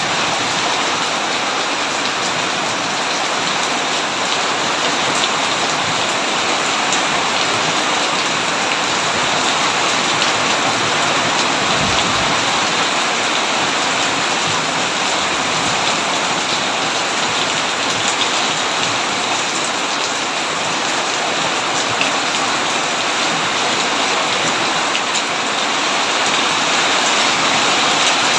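Heavy rain falling steadily on a tin roof: an even, unbroken hiss with scattered sharper drop ticks.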